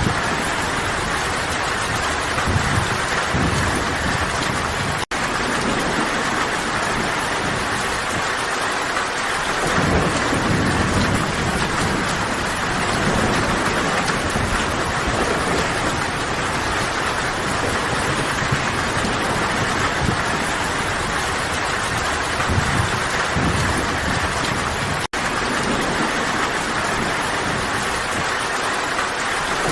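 Steady, heavy rain falling, with low rumbles swelling and fading several times. The sound cuts out for an instant twice, about five seconds in and again about twenty seconds later.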